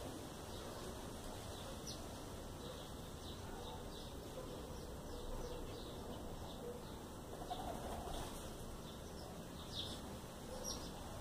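Faint, short, high bird chirps scattered over a steady background hiss.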